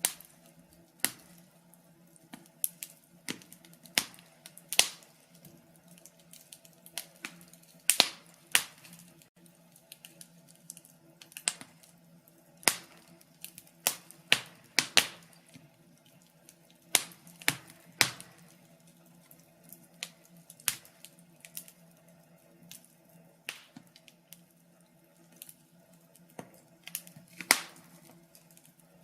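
Wood fire crackling: irregular sharp pops and snaps, several a second at times, over a faint steady low hum.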